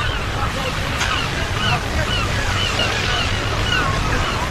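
Ocean surf washing steadily, with many short, arching bird calls repeating several times a second over it.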